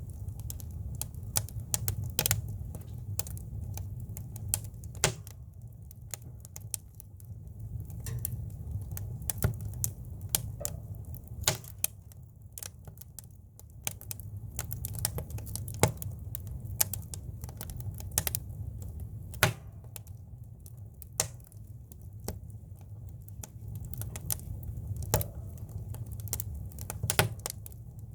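Firewood burning in a campfire, crackling with irregular sharp pops, some loud and single, others in quick small clusters, over a low steady rumble.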